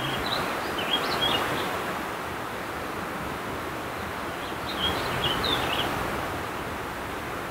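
A songbird sings two short warbling phrases, one about a second in and another near five seconds in, over a steady rushing background noise.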